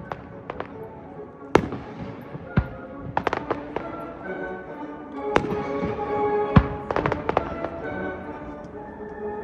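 Fireworks shells bursting in sharp bangs, single ones about a second and a half and two and a half seconds in, a quick cluster around three seconds, and more near five and a half and seven seconds. They go off over music from the show's loudspeakers, which grows louder in the second half.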